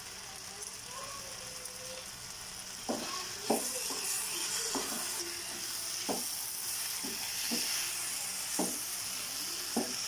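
Anchovy thoran sizzling in a non-stick frying pan after tamarind water is poured in. About three seconds in the sizzle gets louder, and a spatula knocks and scrapes against the pan about eight times at irregular intervals as the mixture is stirred.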